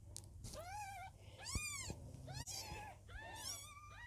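Birman kitten less than two weeks old mewing repeatedly: about six short, high-pitched mews, each rising and falling in pitch, the loudest about a second and a half in.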